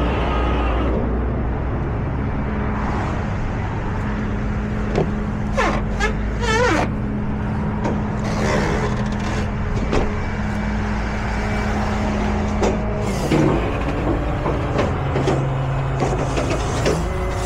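Tow truck engine running steadily, with a wavering squeal about six seconds in and scattered clanks and knocks.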